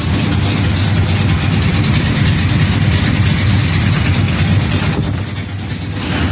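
1976 Chevrolet Laguna's engine idling steadily, a dense low rumble, dipping slightly in loudness about five seconds in.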